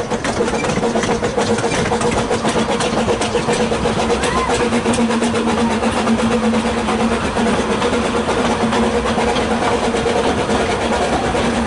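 Narrow-gauge steam train running along the track, heard from an open carriage, with wheels clicking and rattling over the rails under a steady hum.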